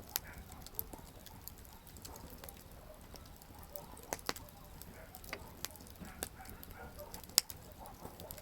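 Wood fire crackling: irregular sharp snaps and pops over a low steady hiss of burning, with one loud pop near the end.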